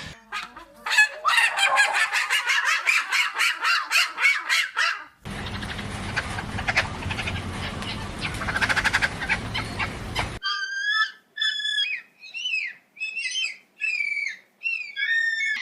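Birds calling in three spliced clips: a fast run of repeated calls, then a denser, noisier stretch, then a string of separate short calls about two a second.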